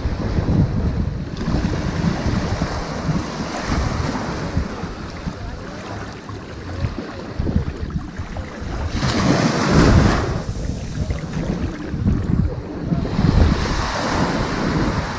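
Ocean waves washing onto a sand beach in continuous surges and ebbs, with the biggest wave breaking about nine seconds in and another near the end. A low rumble of wind on the microphone runs underneath.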